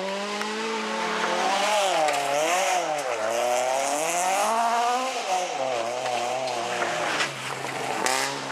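Rally car engine revving hard on a special stage, its pitch climbing, dropping and climbing again several times as the driver accelerates, lifts and changes gear.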